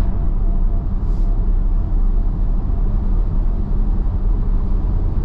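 Steady road noise inside an electric car's cabin at highway speed: a continuous low tyre rumble on dry pavement, with no engine note.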